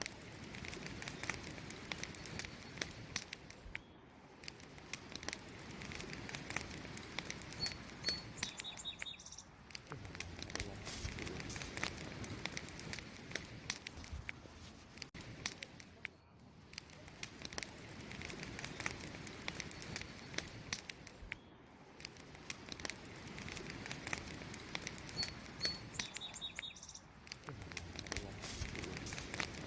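Campfire burning, wood crackling and popping in dense, irregular snaps. A bird chirps briefly twice, about eight seconds in and again near the end.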